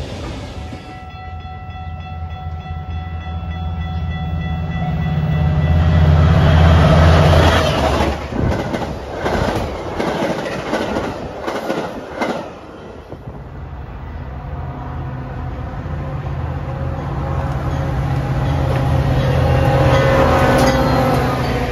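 A diesel-powered train passing. Near the start the locomotive's air horn sounds one steady chord for about four seconds as its engine rumble grows, and the locomotive goes by around seven seconds in. The cars then clatter past, and a second diesel engine rumble builds up and passes near the end.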